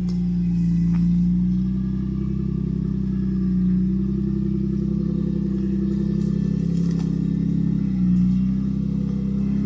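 A 4x4's engine running at low revs as the vehicle crawls slowly up a climb on a rough off-road track, the revs swelling a little a few times.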